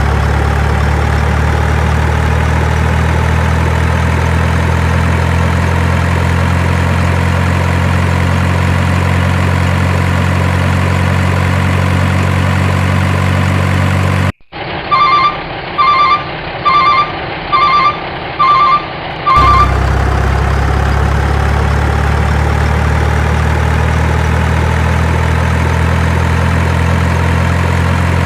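Truck engine idling steadily. About halfway through, the sound cuts abruptly to a reversing alarm beeping six times, roughly 0.8 s apart, before the idle resumes.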